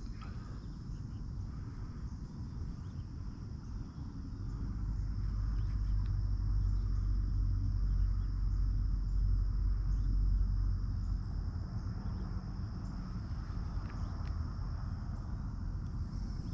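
Outdoor ambience: a steady high-pitched insect drone, like crickets, runs throughout. Under it is a low rumble that swells a few seconds in and fades again.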